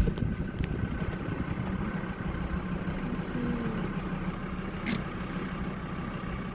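An engine running steadily with a low hum, and a single sharp click about five seconds in.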